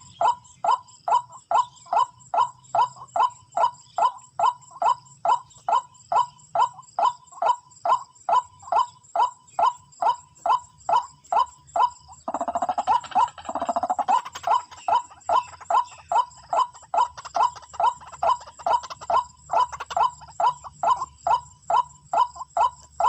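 White-breasted waterhen call repeated steadily, about two notes a second, each a short falling note. About twelve seconds in, a louder, rougher call overlaps it for roughly two seconds.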